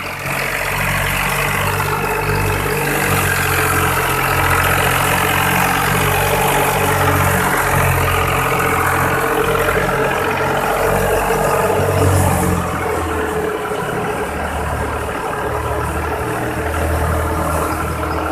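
Tractor-powered thresher running while threshing mustard: a steady, loud clatter and whirr of the drum, with the tractor's diesel engine pulsing underneath. It gets a little quieter about twelve seconds in.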